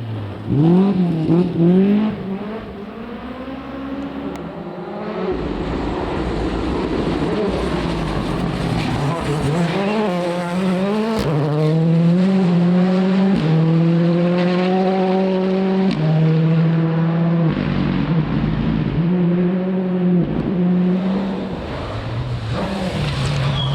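Rally car engine driven hard: the pitch climbs under full throttle and drops at each gear change, repeatedly, with throttle lifts between.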